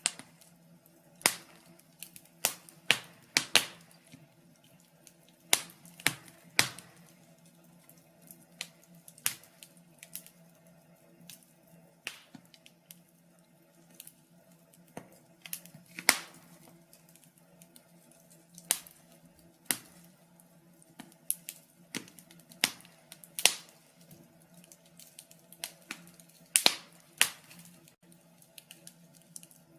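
Wood fire in a fireplace crackling, with irregular sharp pops and snaps, some much louder than others.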